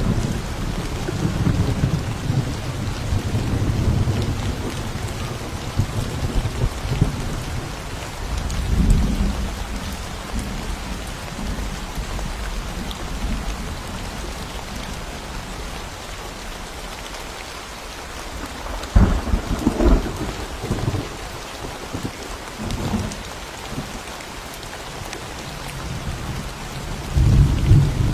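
Steady rain with rolling thunder. The rumble eases through the middle, a sharper thunder crack comes about two-thirds of the way in, and the rumble builds again near the end.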